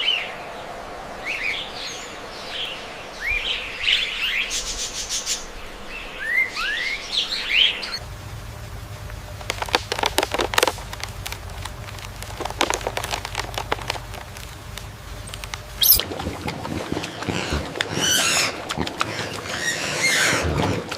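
Birds chirping with repeated short, sweeping calls. Through the middle of the stretch the calls give way to a run of sharp snapping and crackling clicks, and the chirping returns near the end.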